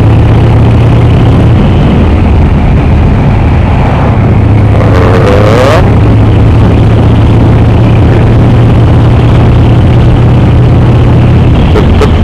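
Cruiser motorcycle engine running steadily while riding, heard through a microphone under the rider's helmet, with loud, constant rushing noise over it. About five seconds in, there is a brief rising whine.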